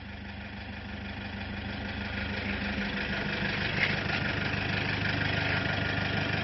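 Toyota Hilux Vigo pickup engine idling steadily, growing gradually louder.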